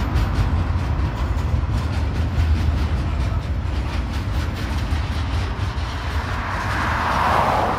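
Freight train of loaded log wagons rolling across a bridge overhead: a steady low rumble with repeated wheel clicks. Near the end a car passing on the road below swells up and starts to fade.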